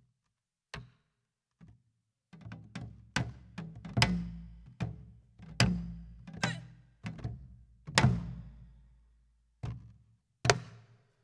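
Korean buk barrel drum and janggu hourglass drum played together in pansori drumming. A few sharp, isolated strikes come first, then from about two seconds in a run of deep strokes that ring on, thinning out to two last strikes near the end.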